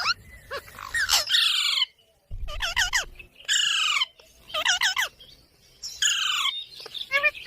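Pet parakeet giving a run of loud, harsh squawking calls, about seven in a row roughly a second apart, each a quick downward-sliding screech, with a short pause about two seconds in.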